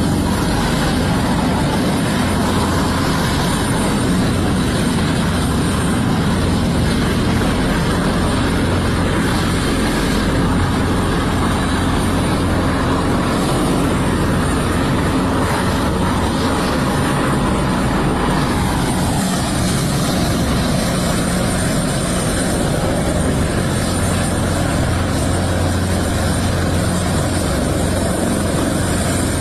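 Helicopter rotor and turbine noise, steady throughout, with a higher tone that drops in pitch about two-thirds of the way through.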